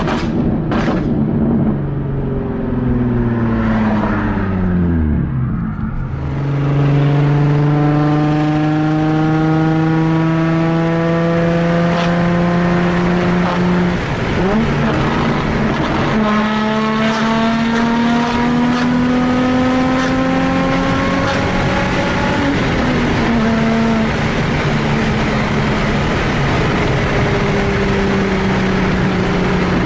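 Nissan 350Z's 3.5-litre V6 through a straight-piped exhaust (test pipes in place of the catalytic converters, no resonator or muffler), loud. The engine note falls as the car comes off the throttle, then rises steadily under acceleration. It drops at a gear change about halfway through, rises again, and settles to a steadier, lower cruising note near the end.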